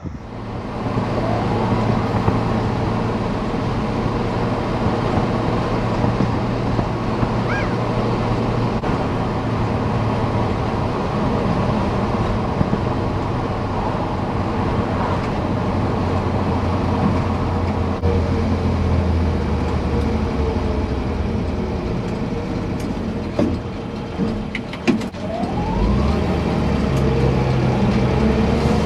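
A motor vehicle's engine running with steady road noise, its pitch shifting a few times.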